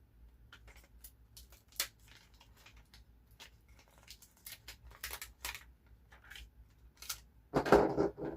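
Paper craft work: stickers and paper being handled and snipped, light irregular clicks and snips, with a louder paper rustle about seven and a half seconds in.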